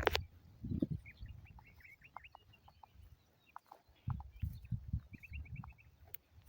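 Birds chirping in two short runs of quick, high notes, about a second in and again near five seconds, over intermittent low rumbles.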